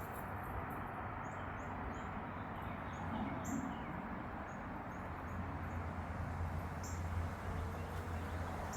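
Small birds chirping: short, high notes repeated irregularly over a steady outdoor hiss, with a low rumble in the second half.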